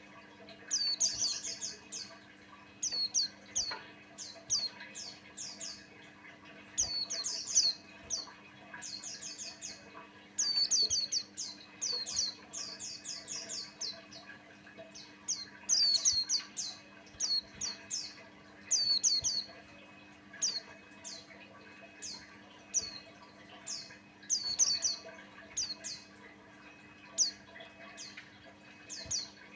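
Pleci buxtoni white-eye singing: repeated short bursts of rapid, high twittering notes, a phrase every second or two.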